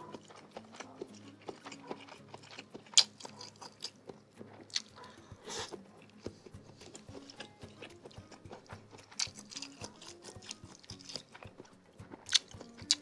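Close-miked chewing of a mouthful of seblak, wet mouth clicks and smacks with a few sharper crunches or slurps scattered through, over faint background music.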